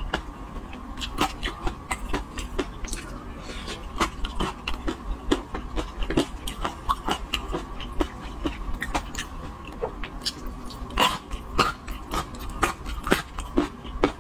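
Close-miked eating: wet chewing, lip smacks and mouth clicks, a few every second and uneven, as spoonfuls of saucy steamed fish are eaten.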